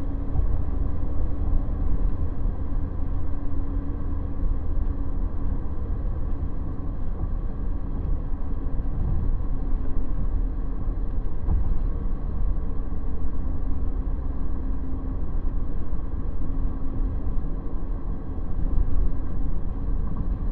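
Cabin noise of a 2017 Ford Transit Sportsmobile camper van on the move: a steady low road and tyre rumble with a faint engine hum that comes and goes.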